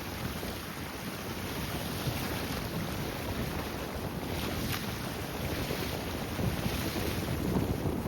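Strong wind buffeting the microphone in a low, uneven rumble over the rush of wind-driven waves, with a brief louder hiss about four and a half seconds in.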